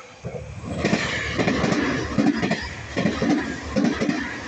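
Tokyu 5000 series electric train passing at high speed on the near track, its wheels clattering rhythmically over the rail joints over a steady rush of running noise. The sound swells sharply about a second in as the train reaches the microphone.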